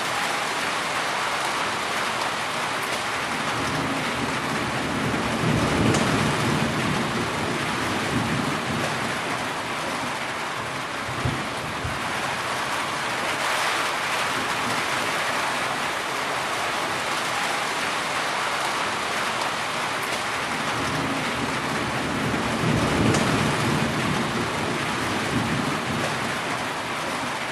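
Heavy rain falling steadily, with low thunder rumbling twice, once about five seconds in and again a little over twenty seconds in.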